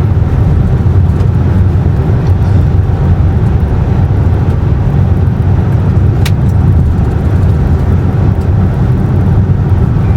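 Steady low road and engine rumble of a car driving, heard from inside the cabin, with one brief sharp click about six seconds in.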